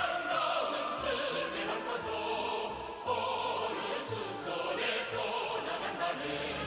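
Choir singing in an operatic style with orchestral accompaniment.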